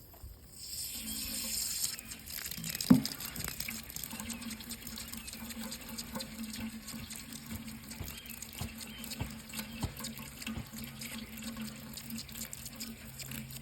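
Water running from a tap into a sink, splashing steadily, over a steady low hum. A single sharp knock about three seconds in.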